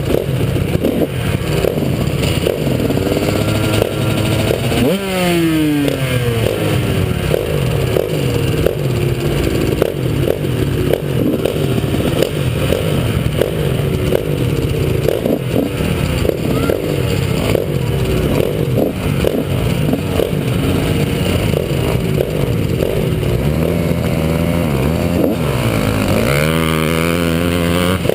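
Honda CR125 two-stroke single-cylinder motocross engine being ridden hard, its revs rising and falling over and over with throttle and gear changes, heard from a helmet-mounted camera. The revs drop steeply about five seconds in, and dip then climb again near the end.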